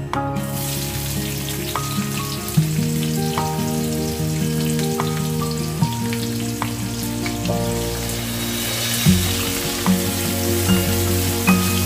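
Whole spices and sliced onions frying in hot oil in a pan: a steady sizzle that starts suddenly and grows brighter in the second half, over background guitar music.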